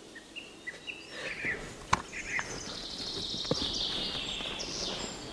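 Birds chirping in forest ambience: short chirps at first, then a continuous high chatter from about halfway through. Two sharp clicks come about two and three and a half seconds in.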